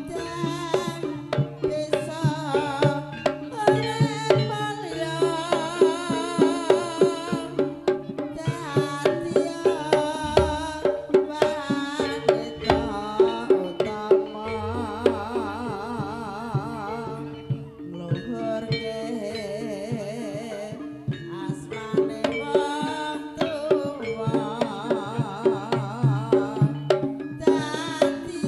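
Live Javanese-style gamelan dance music: hand drums beating a quick, even rhythm under held gong-like tones and a wavering, vibrato-laden wind melody.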